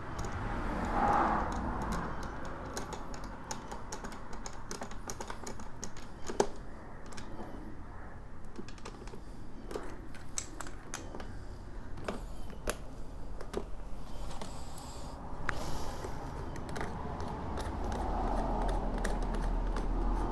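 Handling noise from assembling a Sun Joe electric pressure washer: scattered light clicks and taps of plastic parts and fittings being handled and fitted together, with a sharper knock about six seconds in.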